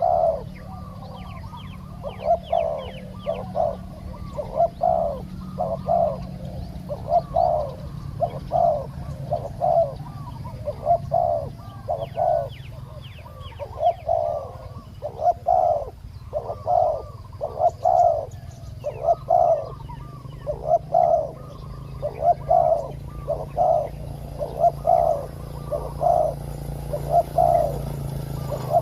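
Spotted doves cooing in repeated phrases, with a few faint high chirps from a smaller bird and a steady low hum underneath.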